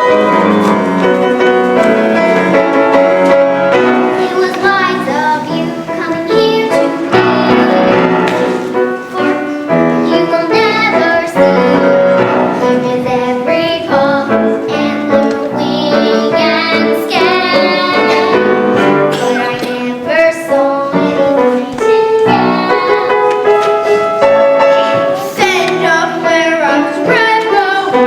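Children's voices singing a musical-theatre song with piano accompaniment.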